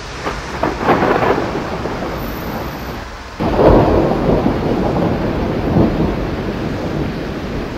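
Thunder: a crackling rumble in the first second or so, then a sudden loud clap about three and a half seconds in that rolls on and fades away near the end, over a steady hiss.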